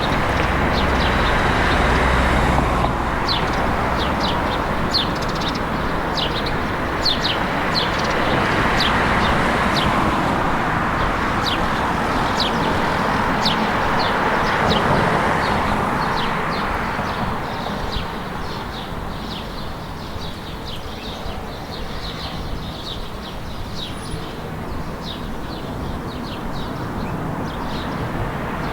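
Many small birds chirping rapidly over a steady wash of town background noise. The noise is louder for roughly the first two-thirds and carries a low rumble in the first few seconds.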